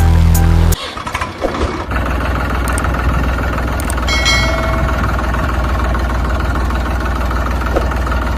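Music cuts off under a second in, then a motor vehicle's engine starts and idles steadily with a low rumble.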